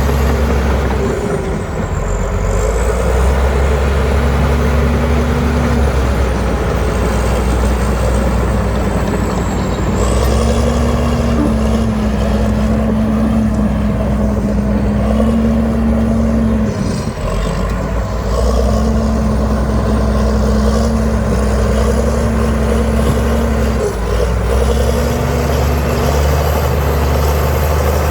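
Heavy diesel earthmoving machinery running hard, a deep rumble with a steady hum that comes and goes in spells of several seconds and a faint high whine wavering above it.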